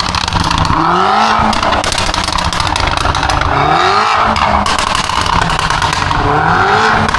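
Car engine revving up three times in rising runs, over a continuous high screech of spinning tyres, as from a car drifting.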